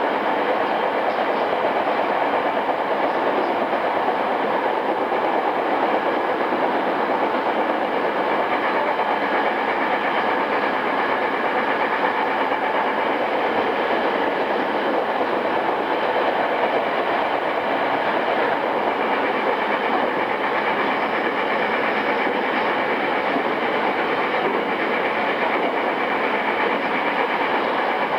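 Running noise inside a JR East E217 series commuter train's motor car, a steady rumble of wheels on rail with a faint steady hum, at an unchanging speed between stations.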